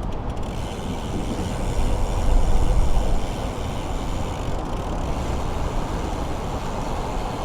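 Wind rushing over the camera microphone and road noise while riding a bicycle, a steady rush with a low rumble that swells for about a second, two seconds in.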